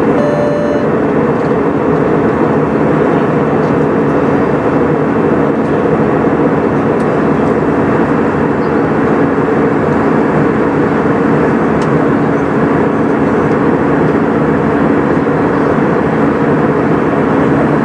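Airbus A320 cabin noise during the climb: steady engine and airflow noise with a constant low hum. A brief pitched tone sounds right at the start.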